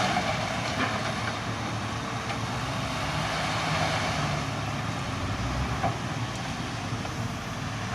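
Heavy construction machine engine running steadily, with a constant mechanical din.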